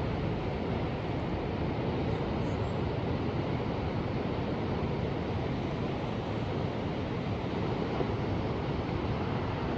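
Ocean surf: a steady, even wash of waves with some low wind rumble on the microphone.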